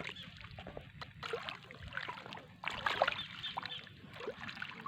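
Shallow water sloshing and trickling, with irregular small splashes and drips.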